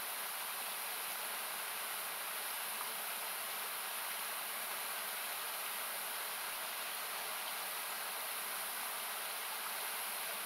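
Steady hiss of a nearby river's rushing water, equalised so that it sounds like even noise, with an occasional faint crackle from the campfire.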